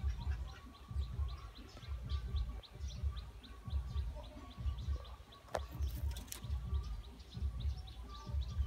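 Outdoor birdsong: a rapid series of short high chirps, about four a second, with a thin steady call running underneath. Irregular low rumbling on the microphone is the loudest sound, and two sharp clicks come a little past halfway.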